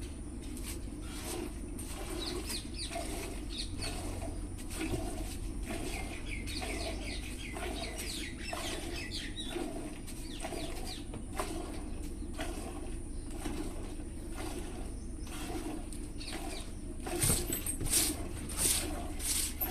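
Buffalo being milked: milk squirting in a steady rhythm of about one stroke a second. A few louder scuffing noises come near the end.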